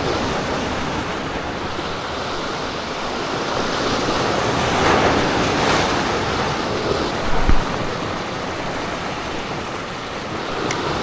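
Sea surf washing on the shore, a steady rushing that swells for a couple of seconds midway, with wind buffeting the microphone and a brief low thump in the second half.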